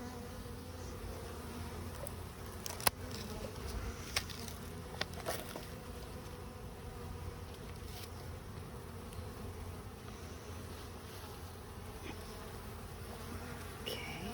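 A package of honey bees buzzing steadily, a dense swarm hum. A few sharp clicks and taps come through it between about three and five seconds in, the loudest near three seconds.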